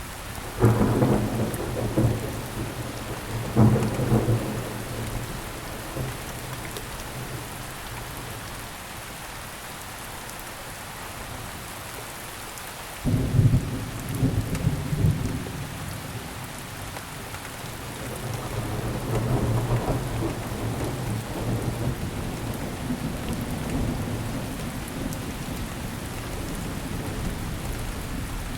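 Steady rain with thunder rolling over it: a loud peal breaks about a second in and again a few seconds later, then dies away. A second peal starts suddenly about halfway, followed by a long low rumble that swells and fades.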